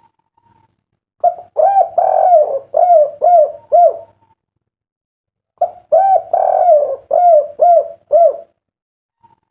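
Spotted dove (derkuku) cooing: two song phrases about four seconds apart. Each is a run of short arched coos with a longer, fuller note near the middle and ending in three quick 'kuk' notes, the song type called kuk 3.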